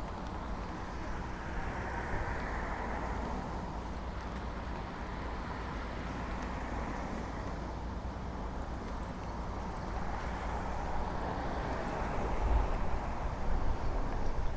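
City street traffic: cars passing on an avenue, swelling up about two seconds in and again near the end, over a steady low rumble.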